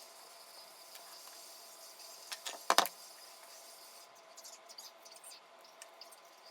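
A quick cluster of sharp clicks and knocks about two and a half seconds in, then scattered lighter ticks, from shoe-repair work at the bench, over a faint steady hum.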